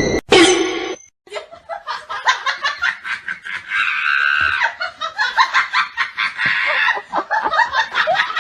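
A person laughing hard in quick repeated bursts after a short cut.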